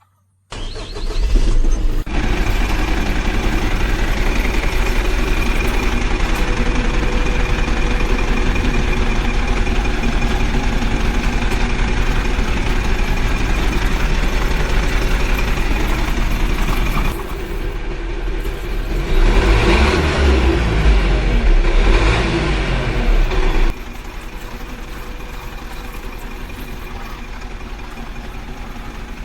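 A truck engine running, with a deep steady rumble that starts suddenly just after a moment of quiet. It gets louder for a few seconds and then drops abruptly to a quieter steady run about 24 seconds in.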